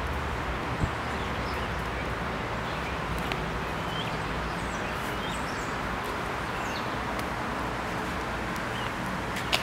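Birds chirping in short scattered calls over steady outdoor background noise, with a sharp click about a second in and another near the end.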